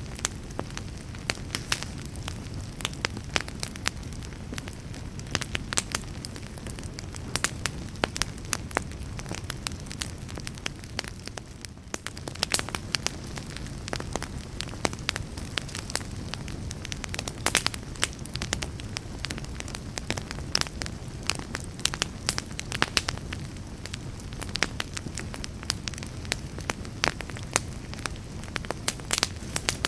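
Wood fire burning with a steady low rumble under frequent sharp crackles and pops, several a second.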